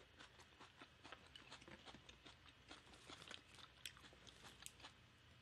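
Faint close-miked chewing of a mouthful of food: soft, irregular mouth clicks and smacks, about four a second.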